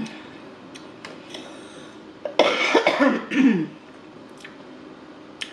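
A woman clearing her throat once, a rough voiced burst lasting about a second, with a few faint clicks before it.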